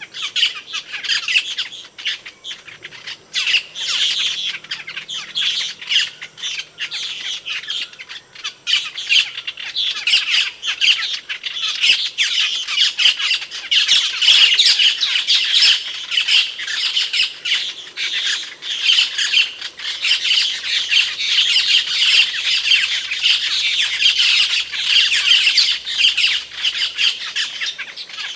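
Asian glossy starling (cucak keling) calling: a dense, unbroken stream of short, sharp, high notes.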